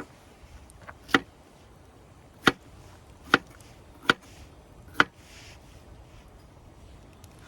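Five sharp chopping strikes, spaced about a second apart, then they stop.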